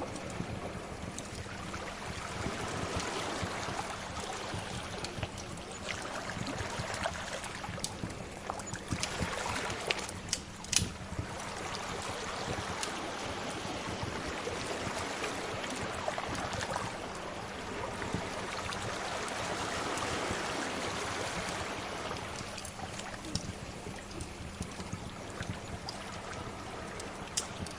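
Sea waves washing in slow swells, with a wood fire crackling and popping over them; one louder pop comes about eleven seconds in.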